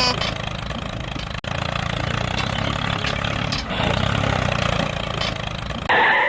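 DIY mini tractor's motor running with a steady low rumble. It drops out for an instant about a second and a half in and grows louder and brighter near the end.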